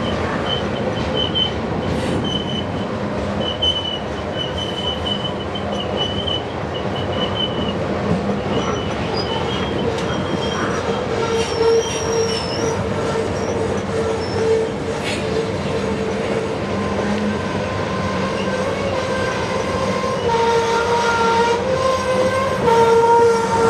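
Loaded coal hopper cars rolling past, wheels clattering on the rails with steady, shifting wheel squeal: a high squeal through the first several seconds, a lower one coming in about 20 seconds in. The train is running downgrade under braking.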